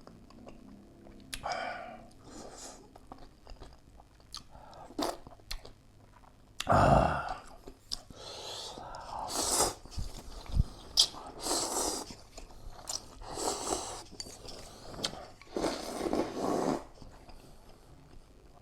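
Close-miked eating of ramen noodles: a string of slurps, each about half a second to a second long, with chewing in between.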